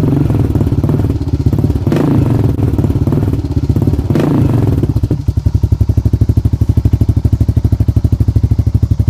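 Honda Rancher 420 ATV's single-cylinder four-stroke engine through a loud aftermarket Slasher exhaust. It is blipped a couple of times, then settles about five seconds in to an idle with rapid, even exhaust pulses.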